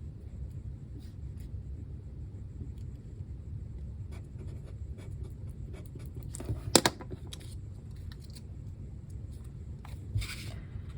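Paper being handled on a craft table: soft rustles and light scratches, with one sharp tap about seven seconds in and a brief rustle near the end.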